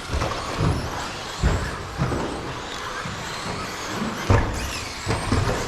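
Electric 13.5 brushless 1/10-scale stadium trucks racing around the track: a steady mix of motor whine and tyre noise with irregular low thuds.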